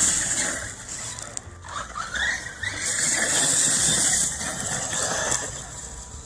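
1/7-scale RC monster truck's electric motor whining as it runs across dirt, rising in pitch as it speeds up about a second and a half in, with its tyres hissing over loose dirt and gravel in two louder surges.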